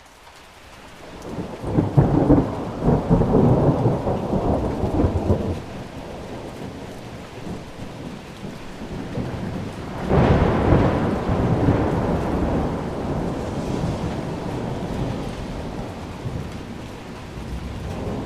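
Steady heavy rain with two rolls of thunder. The first rumbles about two seconds in and lasts a few seconds. The second starts sharply around the middle and fades slowly.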